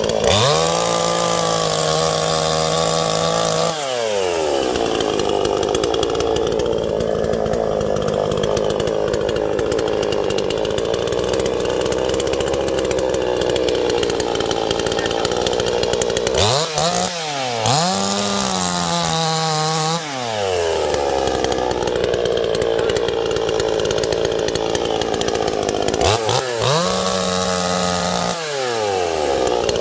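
Chainsaw with a new chain and bar cutting dead wood. The engine revs up sharply three times: near the start, about halfway and near the end. Between the revs it runs at a lower, wavering pitch while the chain is in the wood.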